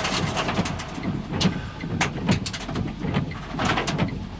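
Wind and hard rain battering a car during a violent storm, heard from inside the cabin: a steady low rumble with irregular sharp hits against the car.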